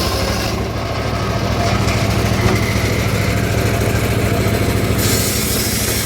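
Engine of a homemade circular sawmill running steadily with an even low pulse; a high hiss over it drops away about half a second in and returns near the end.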